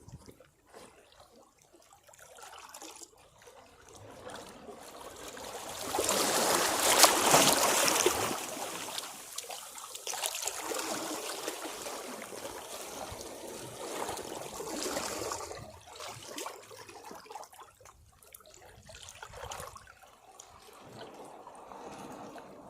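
Sea waves against rocks: one wave breaks about six seconds in, the loudest moment, and the water washes and trickles back off the rocks over the next several seconds before settling to quieter lapping.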